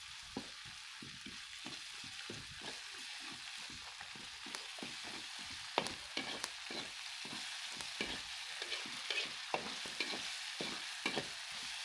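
Food sizzling in hot oil in a wok, with frequent short scrapes and knocks of a spatula stirring it, busier in the second half.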